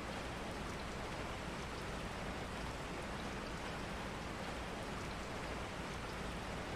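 Steady rain falling, an even unbroken patter.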